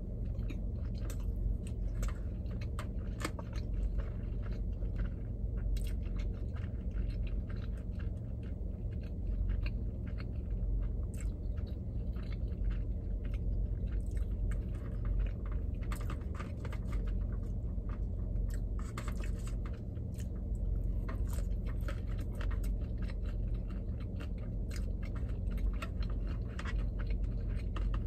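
Close-up chewing of eel sushi: a steady, irregular run of small wet mouth clicks and smacks over a constant low hum.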